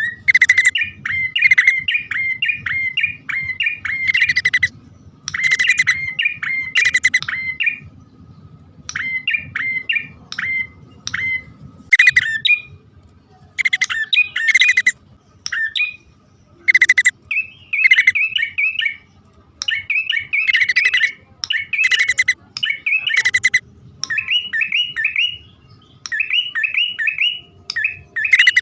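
Prinias (prenjak), male and female, giving bird-lure calls: bursts of quick, sharp chirps repeated in runs of several notes with short pauses between.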